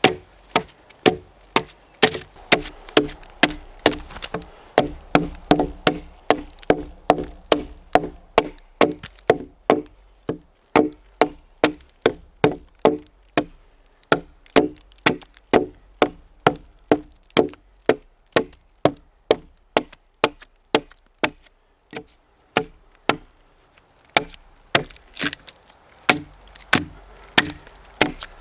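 Axe chopping into a wooden log, blow after blow at a steady pace of about two strikes a second, each one a sharp knock with a short woody ring, with a brief pause about three-quarters of the way through.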